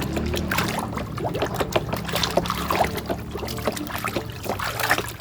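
Water splashing and trickling as a muddy toy is rinsed by hand, a busy run of small splashes and drips.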